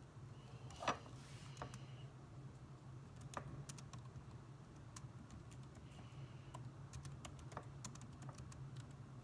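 Typing on a computer keyboard: scattered, irregular keystrokes, one sharper clack about a second in, over a steady low hum.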